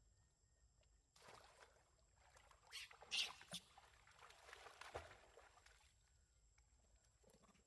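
Faint splashing and sloshing of pond water as a monkey bathes. There are a few splashes from about a second in, the loudest near the middle.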